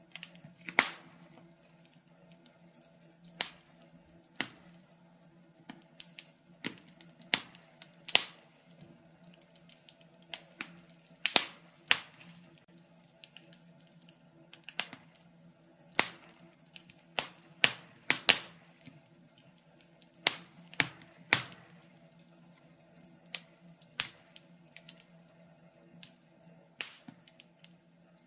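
Wood fire in a fireplace crackling: irregular sharp pops and snaps, sometimes in quick clusters, over a faint low hum.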